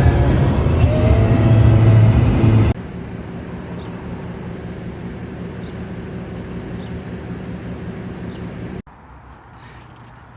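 Beat music for the first few seconds, then an abrupt cut to a steady vehicle hum, like a car running. That hum cuts off again about a second and a half before the end, leaving faint background.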